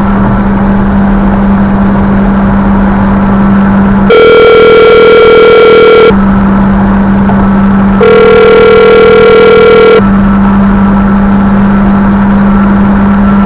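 Phone ringing tone playing through a car's audio system: two even, two-second rings about two seconds apart, over a steady low hum.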